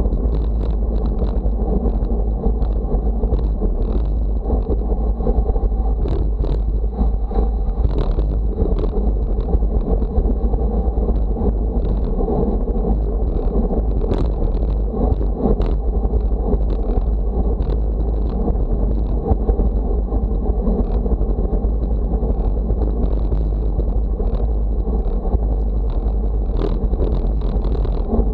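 Wind buffeting the microphone in a steady, loud rumble, with scattered short clicks.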